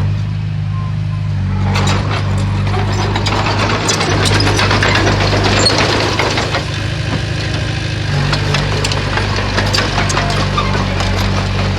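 Komatsu bulldozer's diesel engine running steadily under load. From about a second and a half in, rock and earth grind and crunch with many sharp cracks as the blade pushes boulders.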